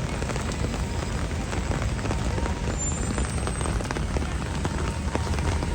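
Heavy rain falling steadily, a dense hiss full of small drop ticks, with a constant low rumble underneath.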